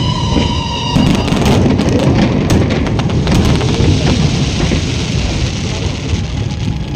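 Fireworks going off: a falling whistle ends about a second in, then a dense run of crackles and bangs over a rumbling wash.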